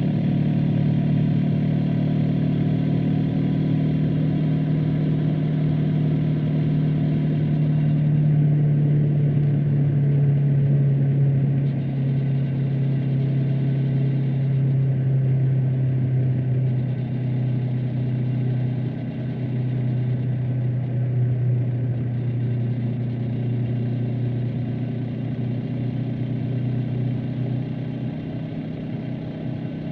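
Honda CB500X's parallel-twin engine and exhaust running at a steady cruise, heard from the rider's seat. The engine note drops a little about twelve seconds in and then holds steady.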